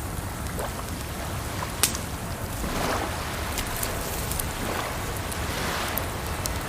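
Wood fire crackling, with scattered sharp pops, the loudest about two seconds in, over a steady rush of running water.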